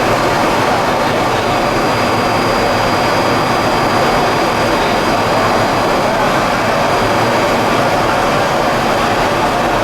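Plastic pelletizing line machinery running steadily, a loud constant industrial din with a thin high whine held through it.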